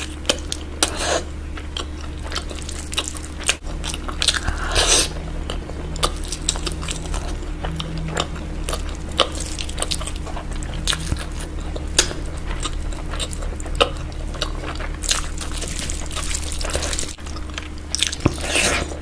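Close-miked eating of mutton curry: steady chewing with frequent wet smacks, bites and crunches, louder spells of chewing twice along the way, over a faint steady low hum.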